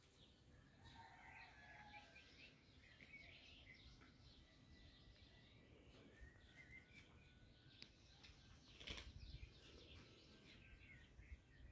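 Faint birds chirping in short repeated calls, with a soft knock about nine seconds in.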